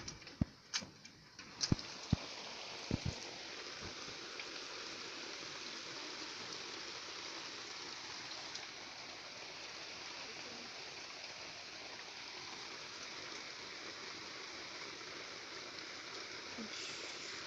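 Steady rush of flowing floodwater. A few sharp clicks and knocks come in the first few seconds.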